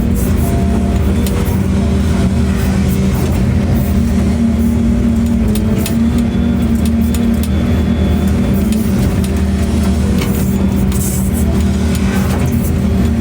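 Excavator diesel engine running steadily at a constant speed, with faint scattered clicks over it.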